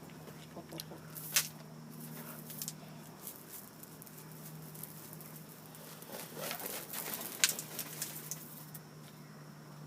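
Chickens pecking and scratching at the ground, heard as scattered taps and scuffs. Two sharper taps stand out, about one and a half seconds in and again about seven and a half seconds in, with a busier run of pecking between about six and eight seconds.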